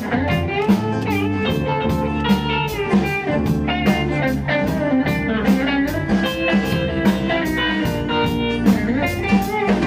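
Instrumental break of a blues-rock band song: electric guitar playing a lead line with bending notes over bass and a steady drum-kit beat.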